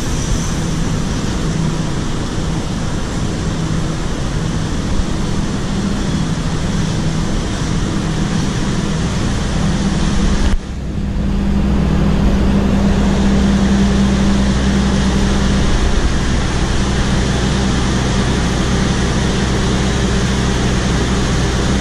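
Kutojaya Utara Premium passenger train rolling past along the platform: a steady loud rumble of wheels on rails with a low mechanical hum. About halfway through the sound breaks off for a moment, and after that the low hum is stronger.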